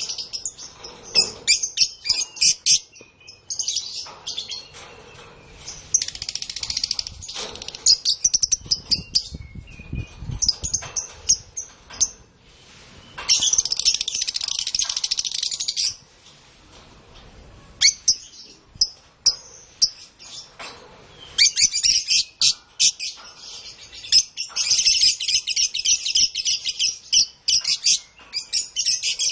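Domestic canaries singing: long, high-pitched rolling trills of rapid repeated notes in phrases broken by short pauses, with one unbroken trill lasting about three seconds around the middle.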